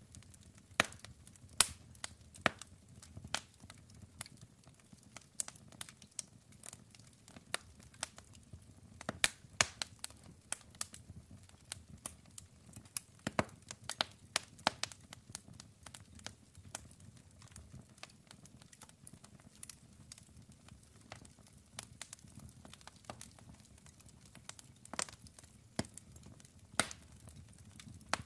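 Wood fire burning, with irregular sharp crackles and pops from the burning wood over a soft low rumble of the flames; a few louder pops stand out, about a second in, around nine to ten seconds in, and near the end.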